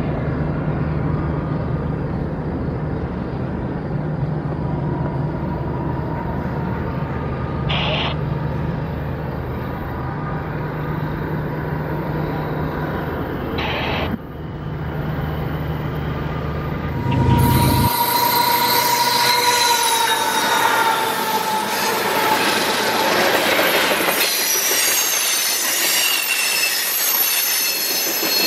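Freight train of tank cars: a steady low rumble from the train at a distance, then, about two-thirds of the way in, the cars rolling close by with their steel wheels squealing in high, wavering tones over the rush of the wheels on the rail.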